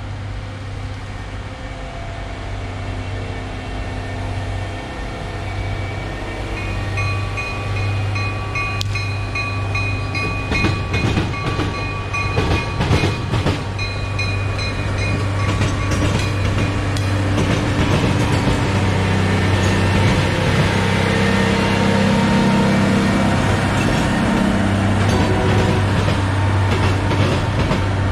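Diesel-hauled work train approaching and passing, its engines humming low and steady and growing louder. From about ten seconds in, the wheels bang and clatter in quick succession over the diamond crossing, with thin high squealing tones.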